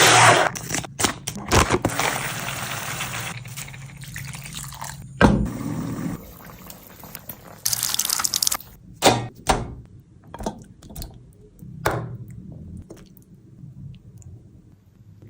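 Kitchen cooking sounds: water poured and splashing, with scattered knocks and clinks of utensils that thin out toward the end.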